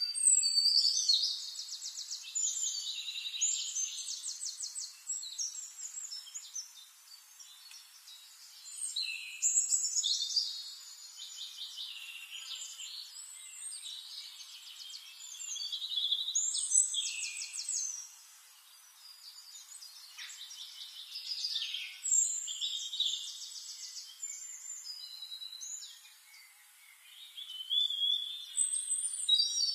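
Bird song: phrases of fast trills and chirps a few seconds long, recurring about every six seconds, with quieter chirping between them.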